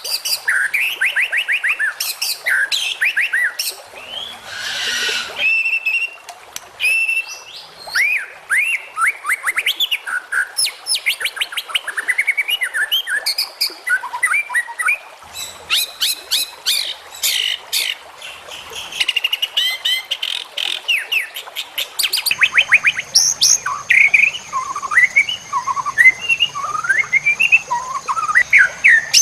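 White-rumped shama (murai batu) singing a fast, varied song packed with mimicked phrases: quick rising whistles, rapid trills and chirps following each other almost without pause. A brief hissing note comes about five seconds in, and a steady thin high whine joins about two-thirds of the way through.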